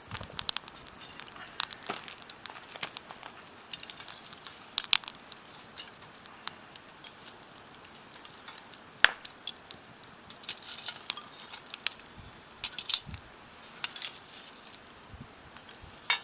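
Wood fire crackling in a fire pit: a soft hiss with irregular sharp snaps and pops, the loudest pops about nine and thirteen seconds in.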